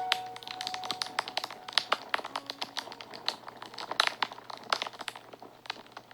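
Wood fire crackling and popping in many quick irregular snaps, with a few faint held notes of soft background music.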